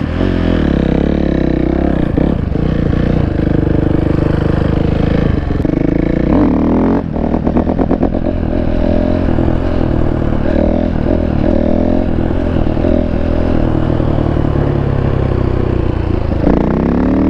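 Dirt bike engine running hard under a rider, revving up about six seconds in and then running on steadily at speed.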